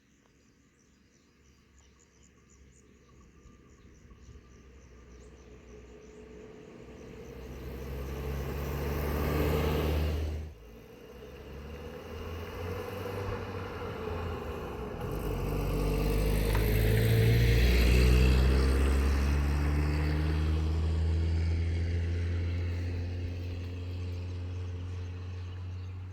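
Motor vehicle engine drawing near and getting louder, a sudden drop about ten seconds in, then loudest again near the end of the middle and slowly fading.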